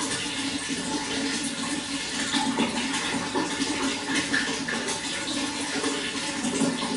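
Running water flowing steadily, an even rush with many small gurgles and splashes.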